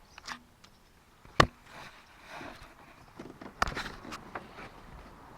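A handful of sharp knocks and clicks with rustling between them. The loudest knock comes about a second and a half in, and a quick cluster of knocks follows near the middle.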